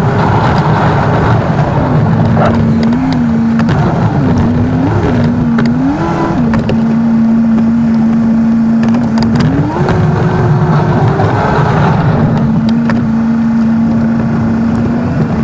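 Diesel plow truck's engine running, its pitch rising with throttle and dropping back to a steady drone several times as the truck pushes snow back and forth.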